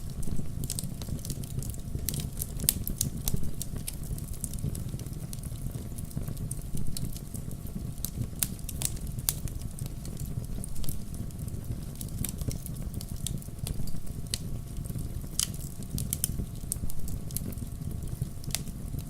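Wood fire in a fireplace crackling: frequent sharp, irregular pops and snaps of burning logs over a low steady rumble.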